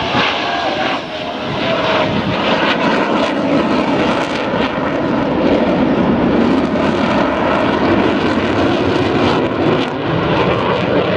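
Jet engines of Blue Angels F/A-18 Hornets flying past in formation: loud, steady jet noise with a crackle running through it, swelling slightly in the middle.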